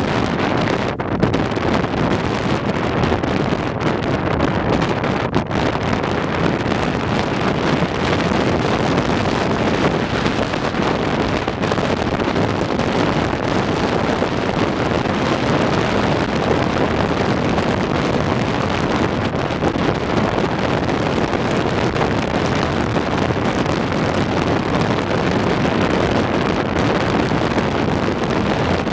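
Wind buffeting the microphone on a moving boat at sea, a loud steady rushing that covers all other sound.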